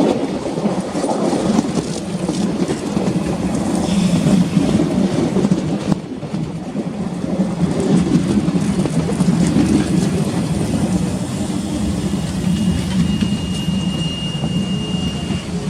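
Train running along the track: a steady rumble of wheels and coaches on the rails. A thin, high, steady tone joins in for about three seconds near the end.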